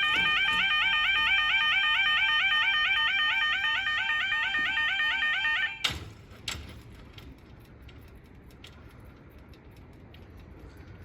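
Level crossing audible warning alarm, a loud rapidly warbling electronic tone, stopping abruptly about six seconds in, followed by two clunks.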